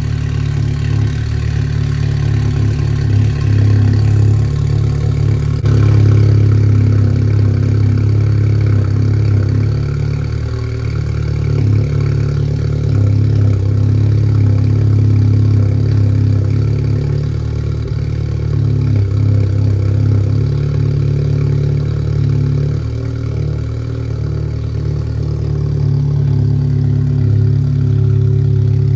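Tuned VW Golf GTI's turbocharged 2.0-litre four-cylinder idling after its cold start, through a full stainless-steel exhaust with only a minimal rear muffler. The idle is loud, deep and steady, with slight rises and dips in level.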